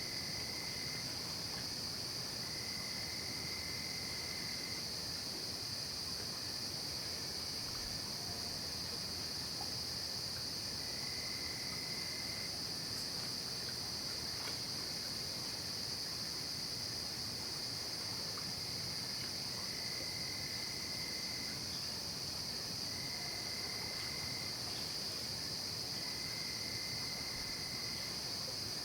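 Night chorus of crickets and other insects: a steady, high-pitched trill that never stops. A second, lower trill comes and goes, each time lasting a second or two, about six times.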